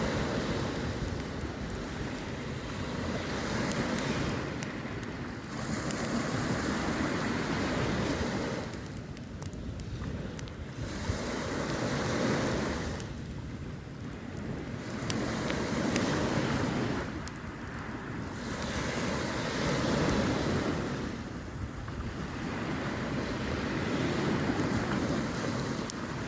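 Sea waves breaking on a beach, the surf swelling and easing about every four seconds, with wind.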